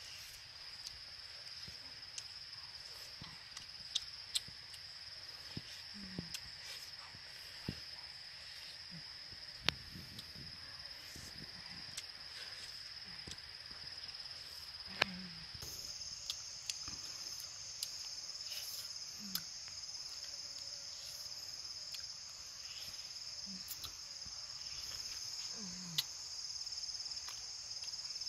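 Steady high-pitched insect chorus, with scattered sharp clicks and taps over it.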